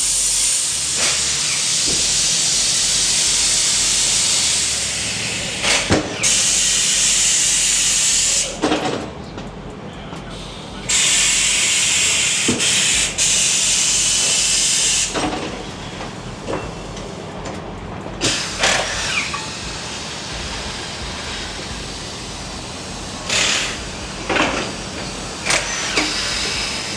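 Compressed air hissing loudly in long bursts that stop and start again, with a few knocks and clicks between them, as air is let into or out of a tire.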